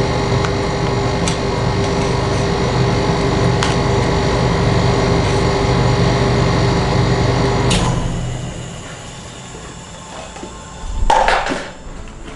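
A machine's steady electric hum that cuts off suddenly about eight seconds in, followed by a few clicks and a short clatter near the end.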